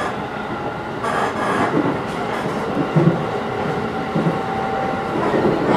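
Cabin noise of an electric train running along the track: a steady rumble of wheels on rail, with a couple of louder low knocks about three and four seconds in and a faint held tone in the middle.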